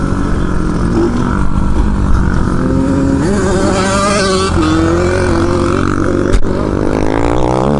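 Pit bike with a 600cc engine being ridden, its engine note rising and falling repeatedly as it accelerates and eases off. A single sharp knock comes about six seconds in.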